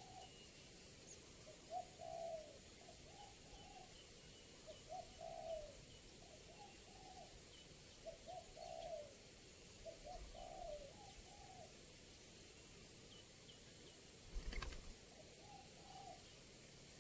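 Spotted dove (tekukur) cooing: a series of low, soft coo phrases repeating every second or two. A brief sharp knock comes about two-thirds of the way through.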